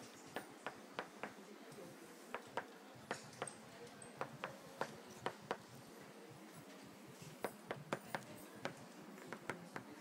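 A small bird striking a window pane from outside: sharp, irregular taps on the glass, often in quick pairs and runs, with a lull a little past the middle.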